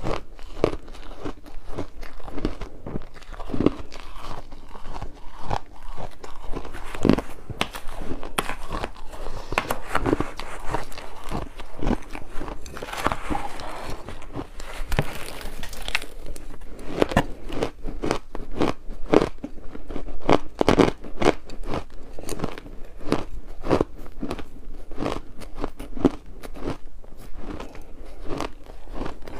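Ice being bitten and chewed close to the microphone: a dense run of sharp crunching cracks, several a second, with a stretch of finer crackling grinding about halfway through.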